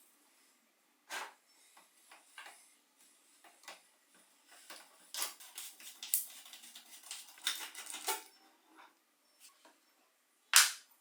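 Metal tools and bicycle parts clicking and clinking against each other in a series of separate knocks, busiest in the middle, with one loud sharp clank near the end.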